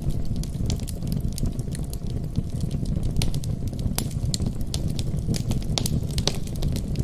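Wood fire crackling in a fireplace: frequent sharp pops and snaps over a steady low background.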